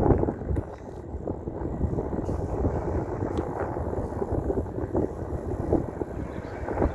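Wind buffeting the microphone in uneven gusts, with road rumble underneath, as an electric mountain bike rides along.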